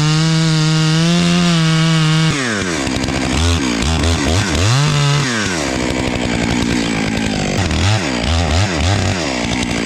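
Chainsaw cutting into a tree trunk, making the face notch for felling. It runs at a steady high pitch for about two seconds, then drops and swings up and down in pitch again and again as it works through the wood.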